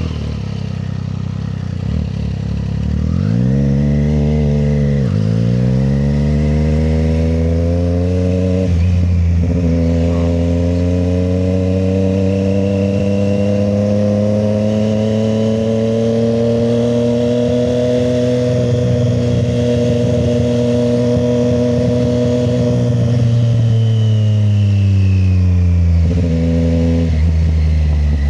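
Triumph Street Triple 765 RS inline-three engine: a quick rise and fall of revs a few seconds in, then it pulls away with a gear change, climbs steadily to a cruising speed and holds it, then eases off and slows, with a short blip of revs near the end.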